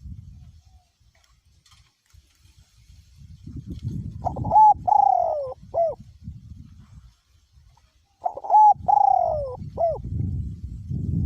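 Male spotted dove calling twice, about four seconds apart. Each call is a short coo, a long falling coo and a short closing coo, with wind rumbling on the microphone.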